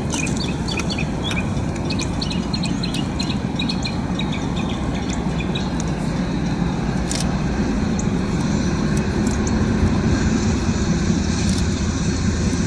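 Freight train rolling past with a steady low rumble, with short high chirps over the first half.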